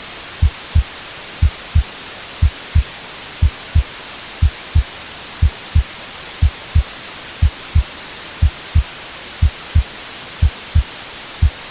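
Heartbeat, a low double thump about once a second, over a steady white-noise hiss.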